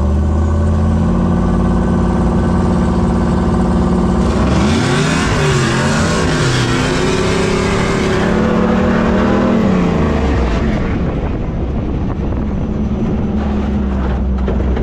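Powerful off-road racing vehicle engine running steadily, then revving hard with its pitch swinging up and down for several seconds from about four seconds in, before settling back to a steady drone.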